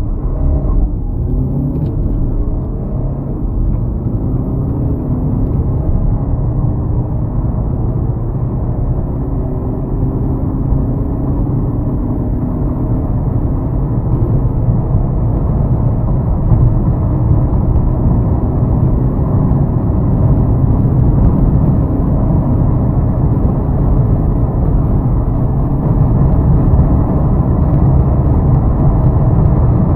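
Four-cylinder turbodiesel sedan accelerating hard from a standstill, its engine note climbing again and again through the gears under a heavy low road and wind rumble that grows louder as speed builds.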